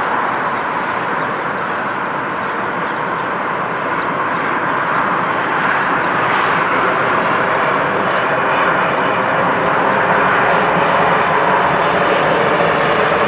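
Jet airliner engines: a loud, steady rush that grows slightly louder, with faint whining tones coming in about halfway through.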